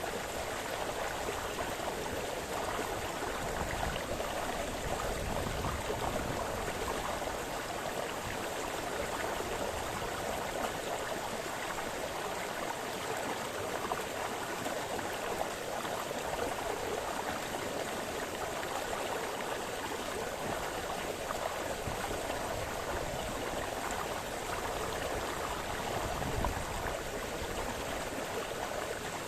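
Small forest brook splashing and burbling over stones, a steady, even rush of flowing water.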